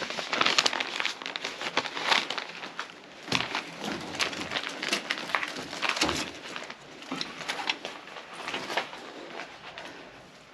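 Irregular crinkling and crunching of paper and debris, a string of sharp crackles that thins out in the second half.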